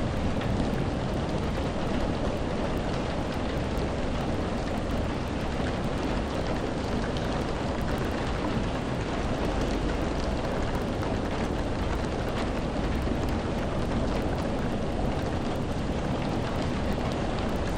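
Steady rain falling, an even hiss with a deep low rumble underneath and faint scattered drop ticks.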